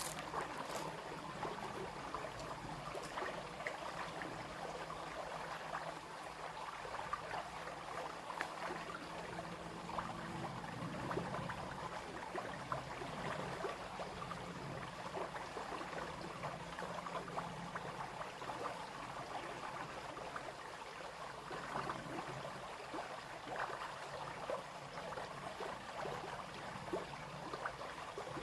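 Small brook flowing over stones, a steady babbling and trickling.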